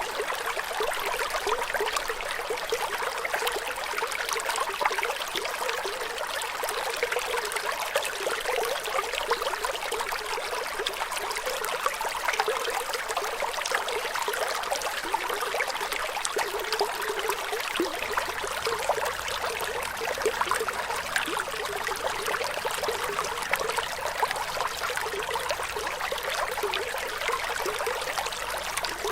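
Flowing water running steadily, a continuous splashing hiss with little low rumble.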